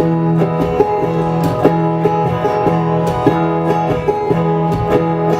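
Plucked guitar playing a repeating picked figure over a held low note, as instrumental accompaniment to the poetry reading.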